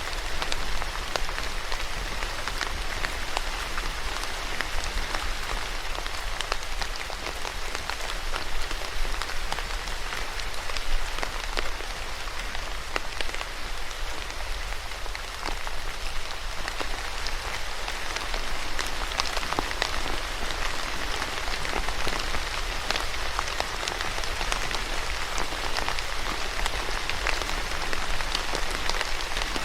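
Steady rain falling, with many fine drop ticks over a continuous hiss and a low rumble underneath.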